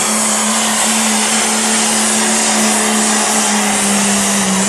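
Cummins turbo-diesel pickup under full throttle pulling the sled, the engine holding a steady high-rev drone under loud turbo hiss, its pitch sagging slightly near the end as it loads down.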